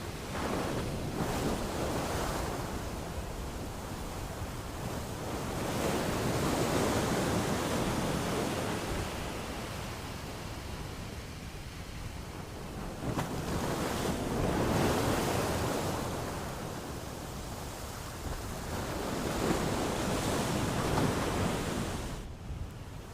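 Ocean waves breaking on a shore, rising and falling in slow surges about every six to seven seconds, four surges in all.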